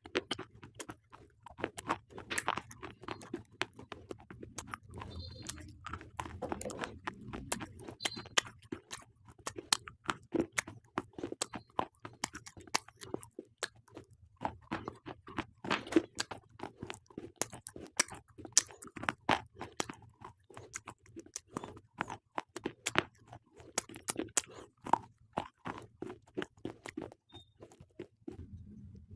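Close-up crunching and chewing of slate pencils: a rapid, irregular run of sharp, brittle cracks as the chalky sticks are bitten and ground between the teeth.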